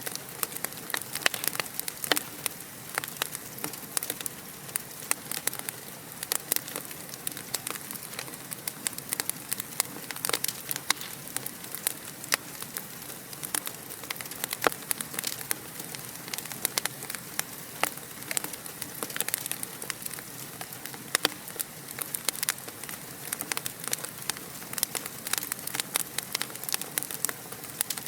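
Fire in a fireplace crackling: a steady soft hiss with many irregular sharp pops and snaps, several a second.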